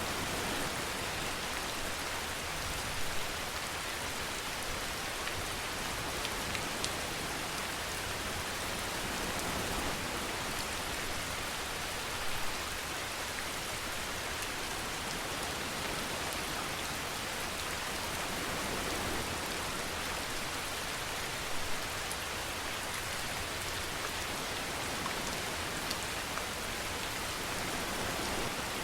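Steady rain falling, an even hiss with no let-up, broken by three brief, slightly louder moments spread through it.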